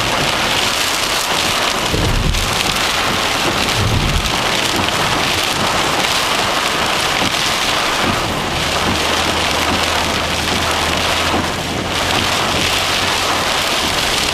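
Heavy thunderstorm rain pelting a moving car, a loud steady hiss with no let-up. Two brief low thumps come about 2 and 4 seconds in, and a low steady hum joins about halfway through.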